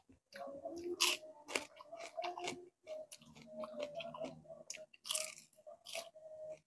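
Close-miked biting and chewing of crispy fried bisugo (threadfin bream), with sharp crunches of the crisp fried skin and bones, loudest about a second in and again around five and six seconds.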